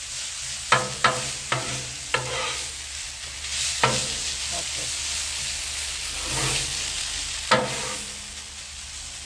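Frozen shredded hash browns and onions sizzling in ghee on a Blackstone griddle's steel flat-top, with a metal spatula scraping and clinking on the griddle as it folds and turns the potatoes. There are four quick clinks in the first couple of seconds, another about four seconds in, and one more late on.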